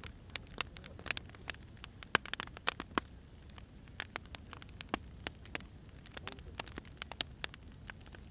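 Firewood burning, crackling with irregular sharp pops, several a second, over a faint low hiss of the fire.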